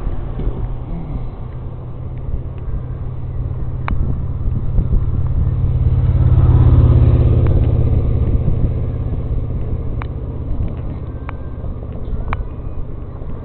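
A car passing by, growing louder to a peak about halfway through and then fading, over a steady low rumble. A few sharp ticks are heard.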